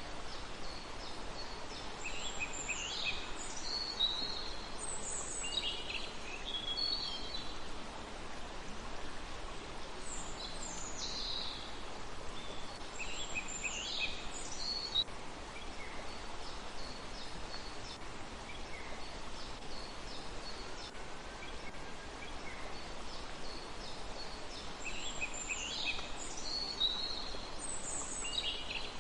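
A songbird singing short phrases of high, quickly falling notes every few seconds, with a pause of about ten seconds in the middle, over a steady background hiss.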